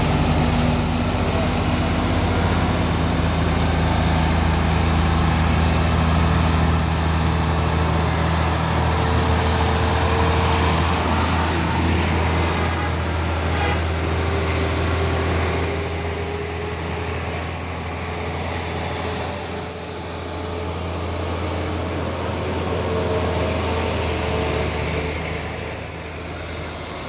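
Heavy diesel truck engine running close by under load, a steady low drone with a faint whine that slides in pitch. It eases off a little about halfway through.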